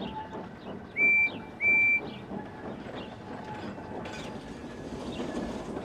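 Steam locomotive whistle giving two short toots, each a steady high tone, over a faint steady rumble of a train rolling along.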